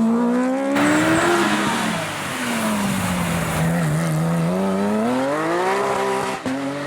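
Racing car engine at high revs: the pitch climbs, falls away over a couple of seconds as the car slows, then climbs again under acceleration before levelling off.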